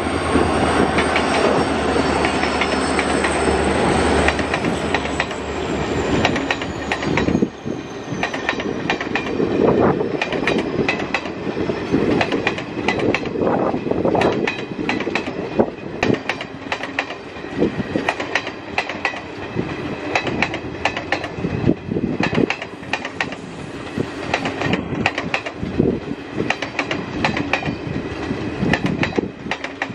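A diesel-hauled train passing. The locomotive's engine and a high whine are heard first, the whine falling in pitch as it moves away over the first several seconds. Then the carriages' wheels clatter over the rail joints in a steady clickety-clack.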